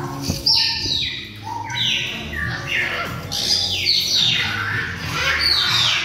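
Bird calls: a series of short chirps, each falling in pitch, about one a second.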